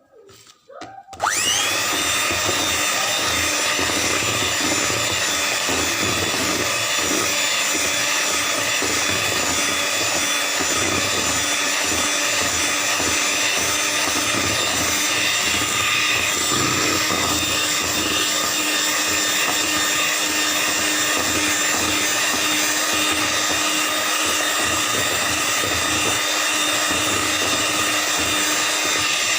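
Electric mixer switched on about a second in, its whine rising as it spins up, then running steadily as its beaters whisk a batter of eggs, sugar and freshly added oil.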